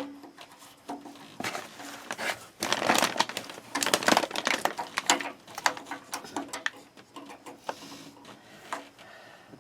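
Irregular clicks, scrapes and rattles as a replacement thermostat is worked up behind its retaining clips on an electric water heater. The handling is busiest in the first half.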